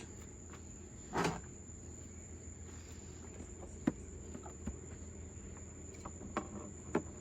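Night insects trilling steadily at one high pitch, with a short rustle about a second in and a few faint scattered clicks.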